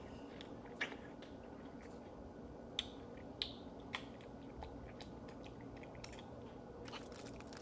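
Faint close-miked mukbang eating sounds: soft chewing with a few sharp wet mouth clicks, about one, three, three and a half and four seconds in.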